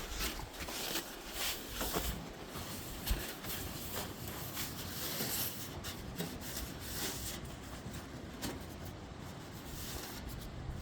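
Irregular rubbing and handling noises on a sheet-metal refrigerator evaporator cover, with scattered light clicks.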